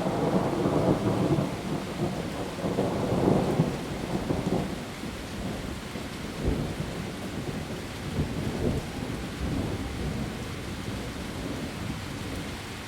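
Heavy rain falling on leaves as a steady hiss, with thunder rumbling low for the first four seconds or so and a few fainter rumbles later.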